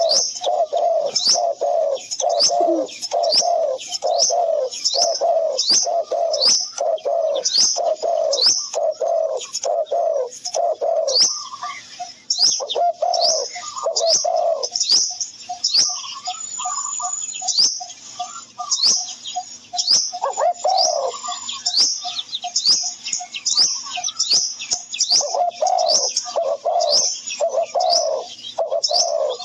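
Birdsong: repeated quick high chirps from small birds throughout, over a dove's repeated low cooing notes, which fade for a stretch in the middle and return near the end.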